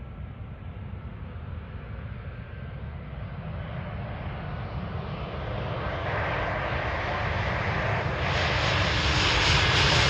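Embraer E190 jet airliner's twin turbofan engines growing steadily louder as it comes in on approach, the whine and hiss building strongly in the last few seconds.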